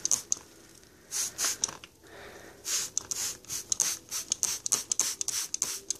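Hand-pump spray bottle misting water onto pet birds: a run of short hissing squirts, fired in quick clusters.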